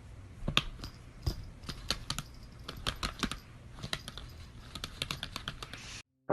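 A series of irregular, sharp clicks and taps, several a second, which stop abruptly near the end.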